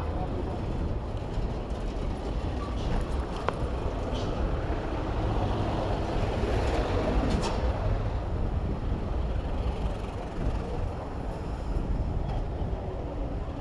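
Road traffic noise with a steady low rumble, heard from a bicycle riding through city streets. A couple of brief sharp clicks stand out, about three and a half and seven and a half seconds in.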